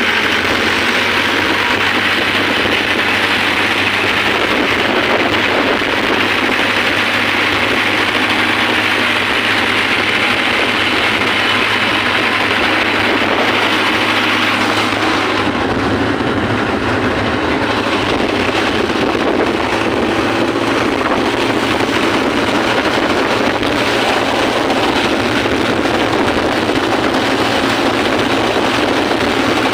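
Mahindra 585 DI tractor's diesel engine running steadily under load at road speed, with a dense rushing noise over the engine note. The low engine tone shifts about halfway through.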